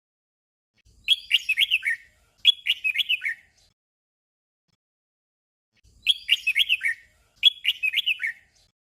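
Red-whiskered bulbul singing its short 'double' song: two quick phrases of falling whistled notes back to back, with the pair heard twice.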